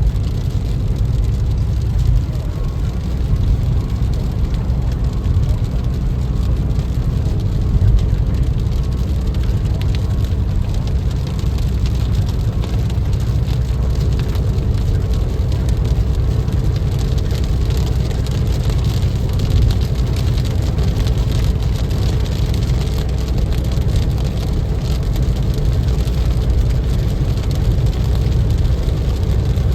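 Steady road and engine rumble heard from inside a moving car's cabin, with rain hitting the car.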